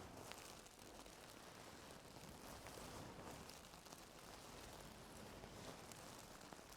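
Faint scratching and rustling of ear-cleaning tools working inside an ear, with a few small clicks.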